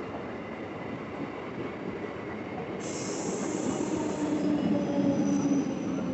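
Indian suburban electric local train running, with a steady rumble. A high hiss comes in about three seconds in, then the wheels squeal in a few steady tones as the noise grows louder.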